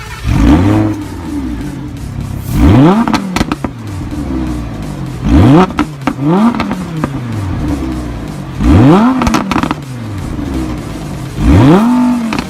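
A sports car's engine being revved in place five times, about every three seconds. Each rev climbs sharply and drops back toward idle.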